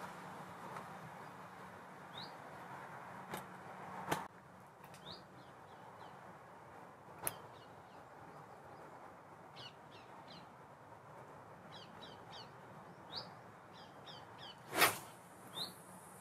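Quiet lakeside outdoor ambience with birds giving short, high, rising chirps on and off throughout. A few sharp clicks or knocks break in, the loudest near the end.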